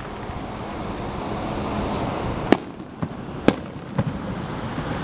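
Fireworks display: a hissing crackle swells over the first two seconds or so, then four sharp bangs come about half a second apart, the first and third loudest.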